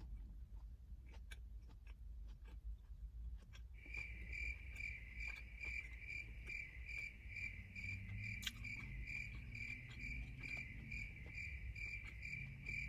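A cricket chirping steadily, a high pulsing trill of about two to three chirps a second that starts about four seconds in. Faint clicks of chewing sound beneath it.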